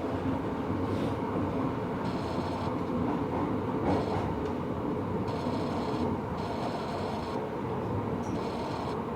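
Tobu 70000 series subway train running on the Hibiya Line, heard from inside the passenger car: steady wheel-and-rail rumble, with brief high-pitched squeals coming and going several times.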